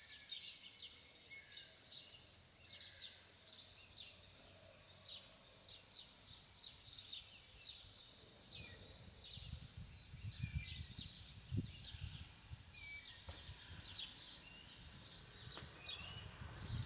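Many small birds chirping in quick, short high calls, faint. A low rumble comes in about halfway through and lasts several seconds.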